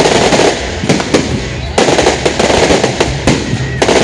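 Firecrackers going off in a fast, dense crackle of pops, with a few louder bangs standing out.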